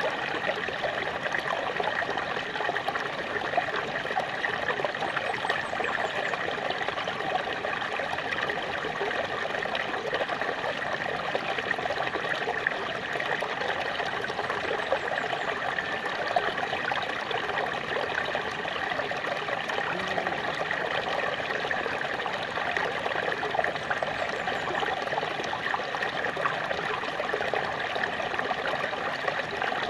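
Small waterfall, water splashing and trickling steadily.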